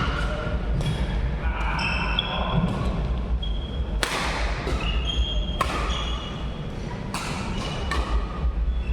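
Badminton rally: sharp racket strikes on the shuttlecock every second or two, with short high squeaks of court shoes between the shots and a steady low hall rumble underneath.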